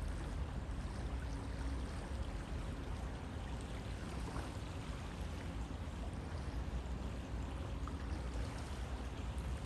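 Steady rushing and burbling of a flowing river, an even wash of water noise with a deep low rumble beneath.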